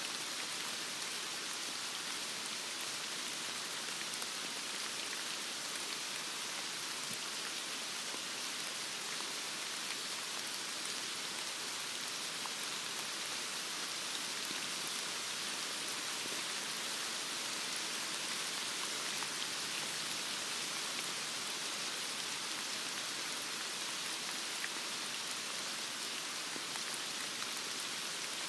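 Heavy rain falling steadily, an even hiss of rain with faint scattered drop ticks.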